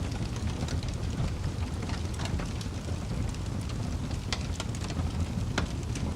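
Wood fire burning with a steady low rumble and irregular sharp crackles and pops, a louder pop about four seconds in and another near the end.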